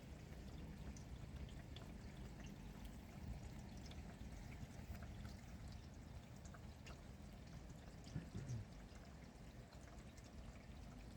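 Steady rain falling, with scattered drops ticking. A brief, slightly louder low sound comes about eight seconds in.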